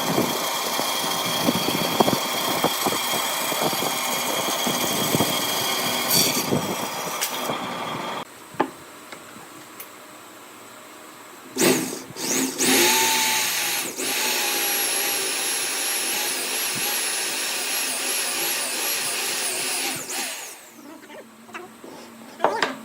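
Woodworking power tools. A motor runs with noisy cutting and scraping for about eight seconds, then stops. After a short pause a motor starts with a quickly rising whine, runs steadily for about eight seconds and shuts off, and a few knocks follow near the end.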